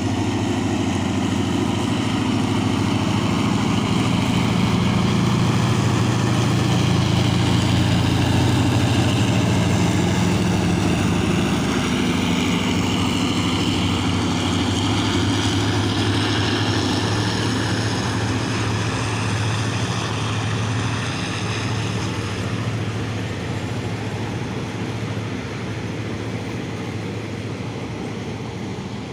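Diesel locomotive engine running with a deep, steady drone. It grows louder over the first several seconds, then slowly fades.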